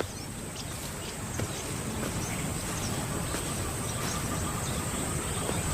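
Bush ambience: a steady high-pitched insect drone over an even low hiss, with faint short chirps scattered through.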